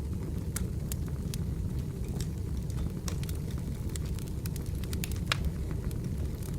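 Burning firewood crackling: frequent irregular sharp pops over a steady low rumble from the fire. One pop about five seconds in is the loudest.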